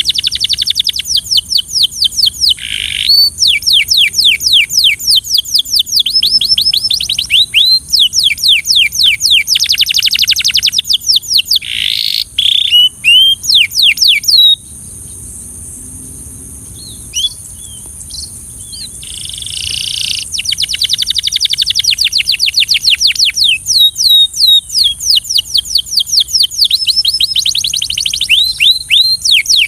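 Belgian canary singing: rapid trills of repeated falling notes, breaking off about halfway for several seconds of only a few scattered notes, then resuming in fast runs.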